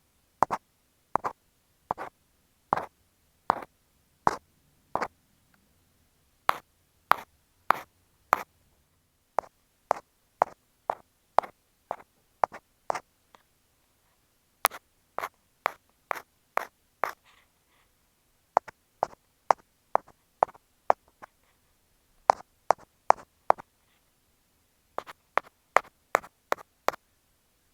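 An ear pick scraping and tapping against an earphone microphone: short crisp strokes, about one or two a second and often in pairs, with brief pauses.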